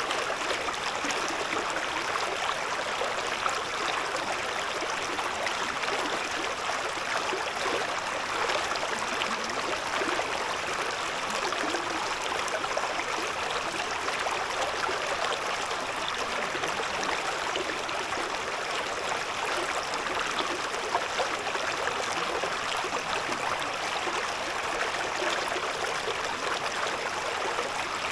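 A shallow stream babbling steadily, water running and splashing over stones in a dense, even rush.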